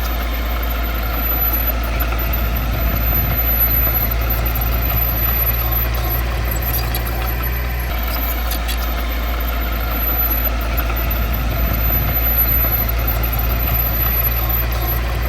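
Heavy diesel earthmoving engine running steadily with a deep, even hum.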